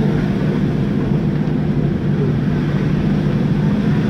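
Off-road vehicle's engine running steadily as it drives a rough dirt track, heard from inside the cab.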